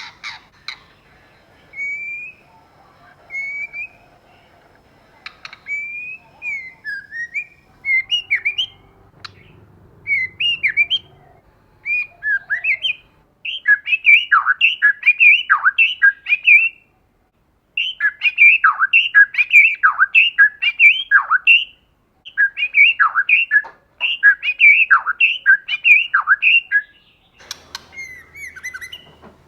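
White-rumped shama calling: scattered short whistled notes at first, then from about halfway a fast, loud run of repeated notes, each sweeping down in pitch, broken by two short pauses.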